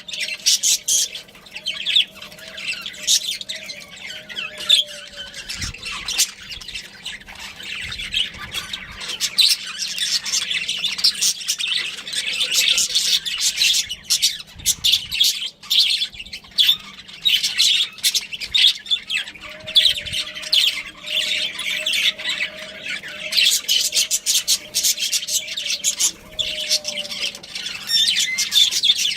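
Budgerigars chattering with rapid, continuous high chirps and squawks.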